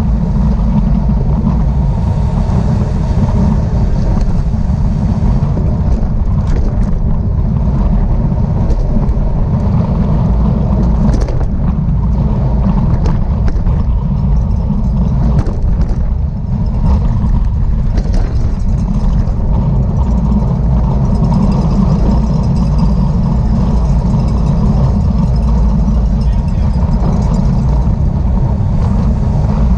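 Steady, loud wind rush buffeting the microphone of a camera riding along on a racing bicycle at speed, with a few faint clicks now and then.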